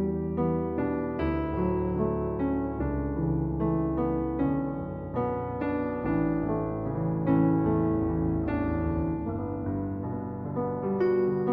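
Background music: soft piano playing a steady run of notes over held low bass tones.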